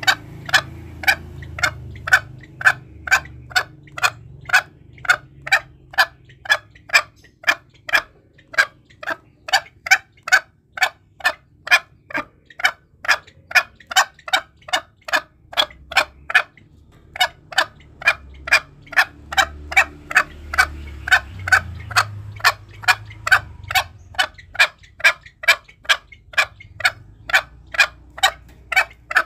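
Green junglefowl calling: a long run of short, sharp clucks, about two a second, broken by two brief pauses.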